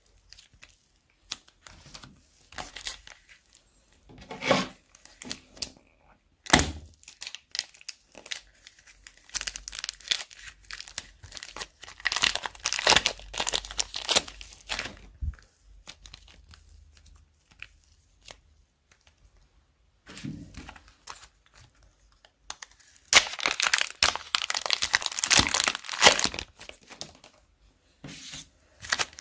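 Plastic bags crinkling and sticky slime crackling as it is squeezed and mixed by hand, in irregular bursts. The handling is densest from about nine to fifteen seconds in and again for several seconds before the end, with a sharp snap about six and a half seconds in.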